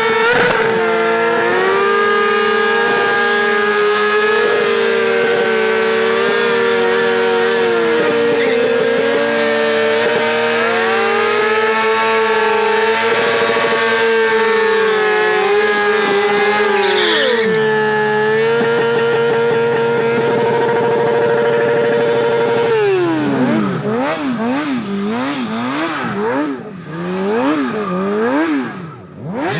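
High-revving motor vehicle engines held at a steady high pitch for a long time, with slow shifts in pitch, then revved rapidly up and down several times near the end.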